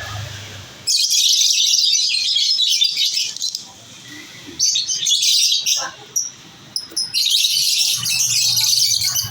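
Lovebirds chattering in dense, high-pitched chirping that comes in three long spells: from about a second in, again around five seconds, and from about seven seconds on.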